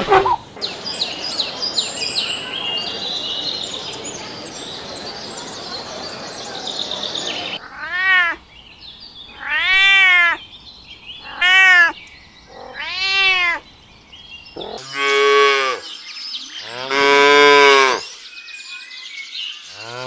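A cat meowing four times in short, rising-and-falling calls, followed by a cow mooing twice in longer, lower calls. Before the meows there is several seconds of hissing noise with faint high chirps.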